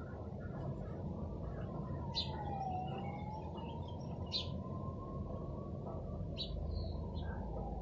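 A bird chirps three times, short and bright, spaced about two seconds apart. Beneath them runs a steady low background hum, with a faint tone that slowly dips and rises.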